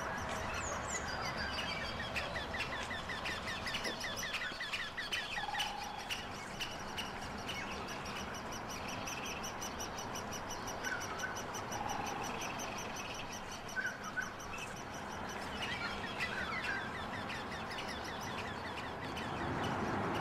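Birds chirping outdoors: runs of rapid repeated chirps a few seconds in and again near the end, with a few single calls in between, over steady background noise.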